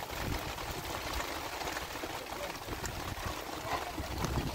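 Heavy rain falling steadily, a dense even patter of drops with water running.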